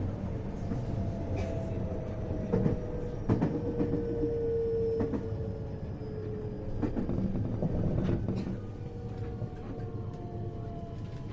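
Inside a 521 series electric train's motor car braking into a station: the traction motor and inverter whine falls steadily in pitch over a low running rumble. Sharp wheel clacks come now and then, as the wheels pass over rail joints and points.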